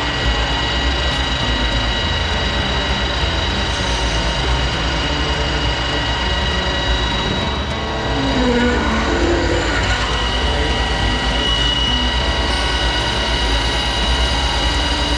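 Steady machine running in a metal shop: a continuous drone with several high, steady tones, the sound of a metalworking machine cutting metal on a part.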